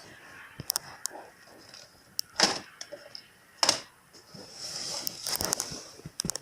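Scattered sharp clicks and light clatter of small hard parts being handled, with a denser rattle and rustle about five seconds in.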